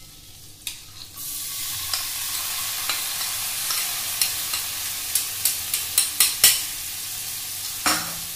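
Sweet corn kernels dropped into hot melted butter in a stainless steel frying pan, setting off a steady loud sizzle about a second in. A spoon knocks and scrapes against the bowl and pan a number of times in the middle and once more near the end.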